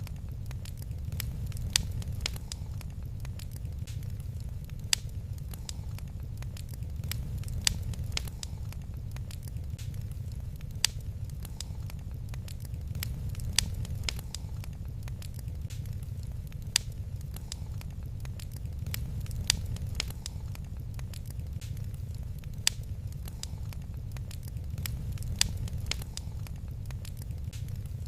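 Wood fire crackling: sharp pops scattered through the sound over a steady low rumble. The loudest pops come about every three seconds, with many fainter ones between.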